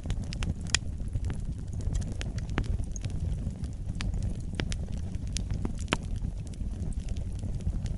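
Fire burning in a fireplace: a steady low rumble of flames with irregular sharp crackles and pops scattered throughout, the loudest about three-quarters of a second in and near six seconds.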